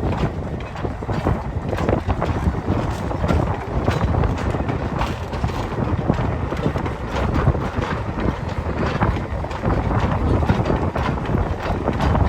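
Narrow-gauge Ffestiniog Railway train running, its wheels rattling and clicking irregularly over the track, with wind buffeting the microphone.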